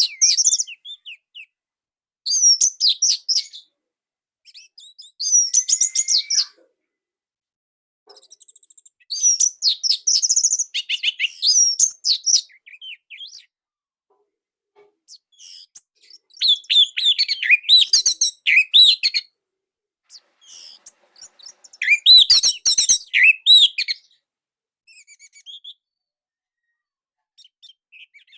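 Orange-headed thrush singing: bursts of rapid, high, tightly packed chirped notes in phrases of one to three seconds, separated by pauses of a second or more.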